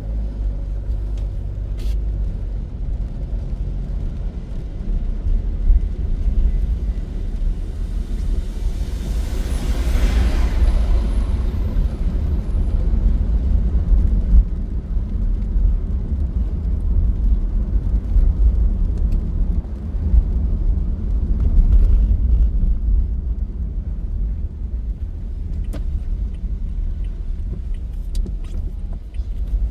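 Car driving on a rain-soaked road: a steady low rumble of road and engine noise, with a hissing swell about ten seconds in that rises and fades over a few seconds.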